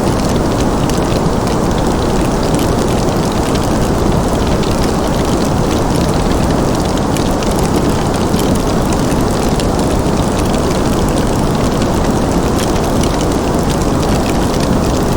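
Fireplace crackling, with many small sharp pops, over a steady low rushing noise of a winter ambience bed.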